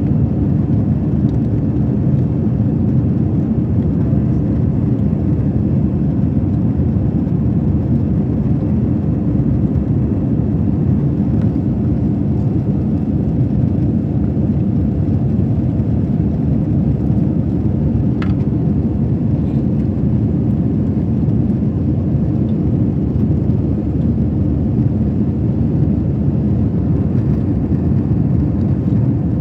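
Steady low cabin noise inside a Delta Airbus A321 in flight, the engines and airflow running evenly with no change in pitch.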